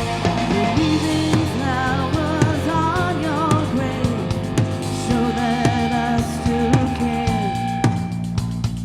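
Live rock band playing: drum kit and electric guitars under a singing voice, with held notes that waver between about one and a half and three and a half seconds in.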